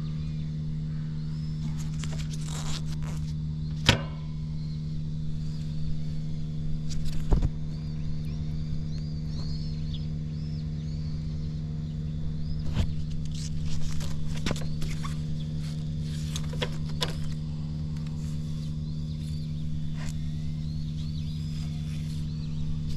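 Suzuki GN125H's air-cooled single-cylinder four-stroke engine idling steadily, with no abnormal noise, and a couple of sharp clicks.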